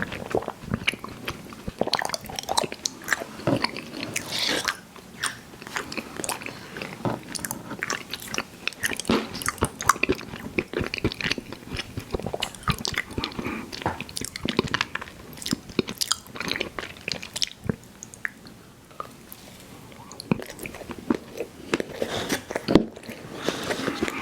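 Close-miked chewing of soft, sticky fruit-chew candies: a continuous run of wet, irregular mouth smacks and clicks.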